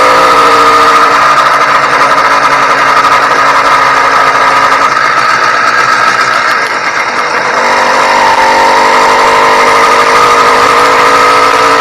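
Ported YD100 two-stroke bicycle engine running under way on a motorized bicycle during break-in. It runs steadily, eases off with a brief drop in pitch about halfway through, then picks back up.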